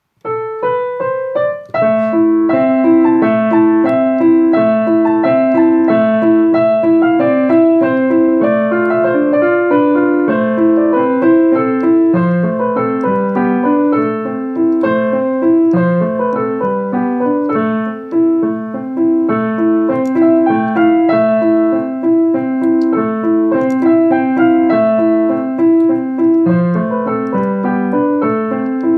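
Solo piano playing a melody over a steadily repeating pattern of lower accompaniment notes.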